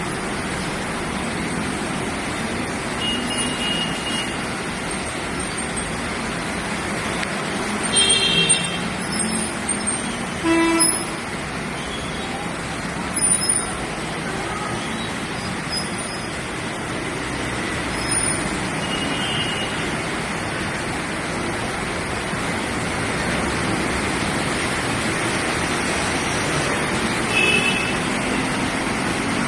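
Road traffic under a steady hiss, with vehicle horns honking briefly about a quarter of the way in, twice more over the next few seconds, and once near the end.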